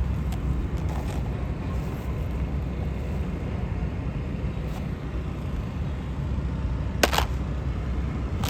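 Steady low outdoor rumble, with two short sharp rustles or knocks, one about seven seconds in and one near the end.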